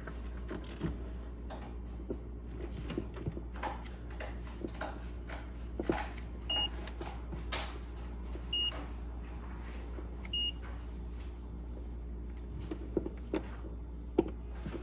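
Three short, high electronic beeps about two seconds apart, from a refrigerator's control panel, over a steady low hum and scattered clicks and knocks of handling.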